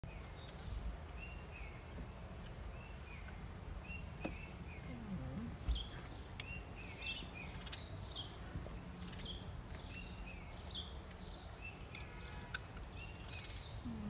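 Several small birds chirping in short repeated calls at a few different pitches, often overlapping, over steady low background noise. A single low thump comes a little before the middle.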